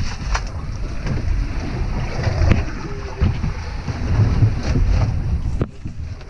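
Wind rumbling on the microphone aboard a boat at sea, with a few sharp knocks about half a second, two and a half seconds and five and a half seconds in; it drops quieter near the end.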